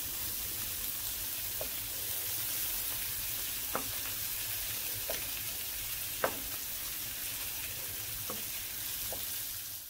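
Shrimp sizzling steadily in melted butter in a frying pan, with a few light knocks of a wooden spoon against the pan as they are stirred and turned.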